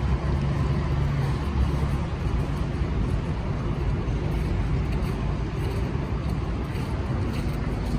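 City street traffic: vehicle engines running in a steady low rumble, with a low engine hum held underneath.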